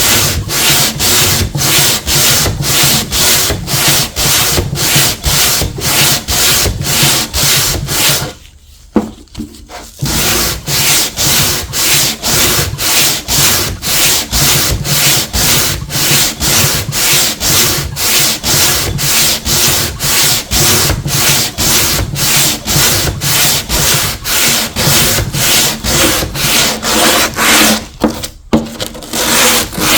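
Hand tool rubbed back and forth over old paint and finish to strip it. The strokes are loud and rasping, about two a second, with a pause of a second or two about a third of the way in and a brief break near the end.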